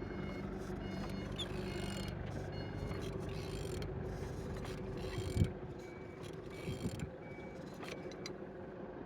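Opel Z16XER four-cylinder petrol engine being turned over by hand, with mechanical clicking and the turning of its internals. There is a single knock about five and a half seconds in. It turns freely, the sign of an engine that is not seized.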